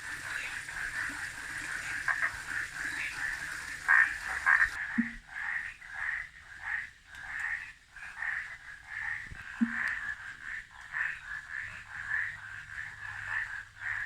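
Frogs calling in the rainy season: a steady run of short, repeated calls, about two a second, with a brief lower call every few seconds.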